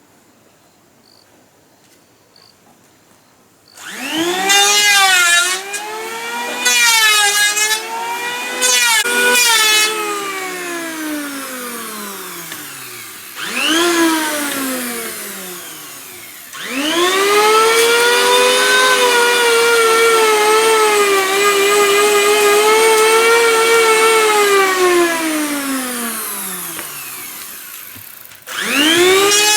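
Electric power tool motor starting up after a few seconds of quiet with faint insect chirping. It runs in several bursts, its whine sagging and wavering as it works, and winds down with a falling pitch at about nine, fifteen and twenty-eight seconds in, starting again near the end.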